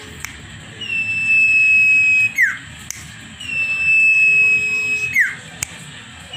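Cipong (sirpu) songbird singing loud whistled calls, twice: each a long, clear high note held for about a second and slightly falling, ending in a quick downward slur.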